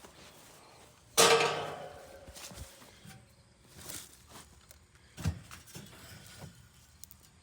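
A sharp bang or slam about a second in that rings out briefly, followed by a few softer knocks and thumps.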